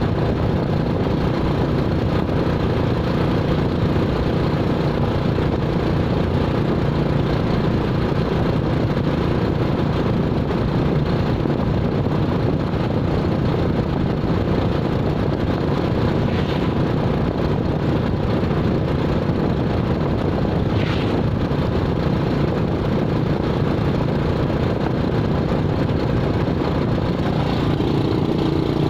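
Steady vehicle engine and road noise, holding an even pace with no revving or stops.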